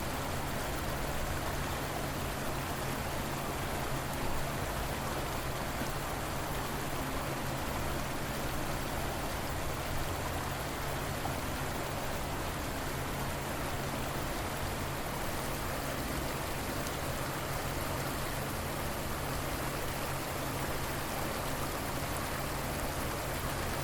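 River water flowing: a steady, even rush with no breaks or single events.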